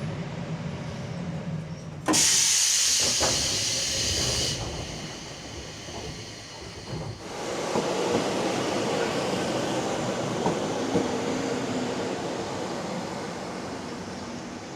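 Electric passenger train running, with a sudden loud hiss of air starting about two seconds in and lasting a couple of seconds, then steady running noise that slowly fades.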